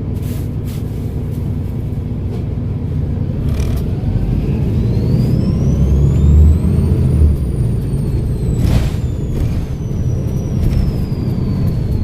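Volvo B7RLE bus's turbodiesel engine pulling under load, with a high turbocharger whistle that climbs steeply for about two seconds, then slowly falls away as the engine eases off.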